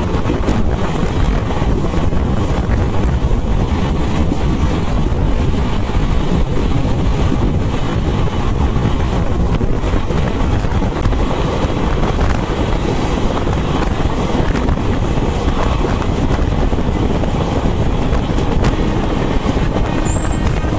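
Express train running at speed, heard from on board: a steady rush of wind over the microphone over the low rumble of wheels on the track.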